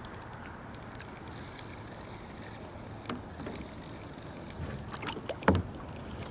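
Kayak being paddled: quiet paddle splashes and a few knocks, the loudest a little over five seconds in.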